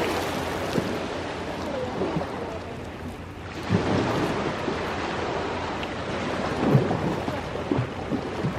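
Ocean waves washing ashore: a steady rush of surf with brief louder surges about a third of the way in and again near the end.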